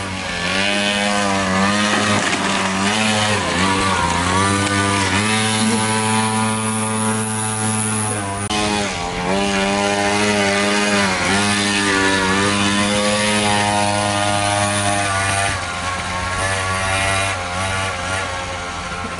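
50cc mini moto engine being ridden hard. Its buzzing note keeps dropping and climbing again as the throttle is rolled off and opened.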